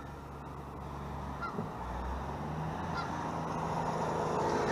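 Faint short bird calls, one about every second and a half, over a steady low hum that slowly grows louder.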